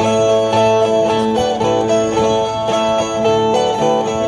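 Brazilian viola played alone, a repeating melodic figure of plucked notes over a steady drone. This is the instrumental interlude between two sung stanzas of a repente duel.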